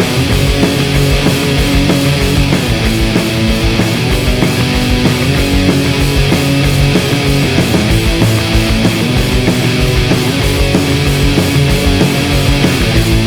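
Instrumental stretch of a rock song: loud guitars over bass and drums playing a steady beat, with no singing.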